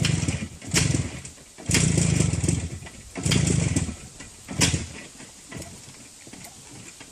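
Motorcycle engine being cranked over in five short bursts with an even rapid pulsing, not catching. The bike has been driven into a deep puddle and has taken on water.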